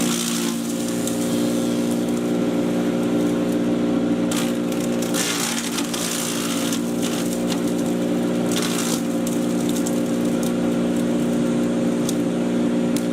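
Patriot 1.5-HP electric chipper shredder running with a steady motor hum, broken by irregular bursts of crunching as material is chipped, the longest about halfway through.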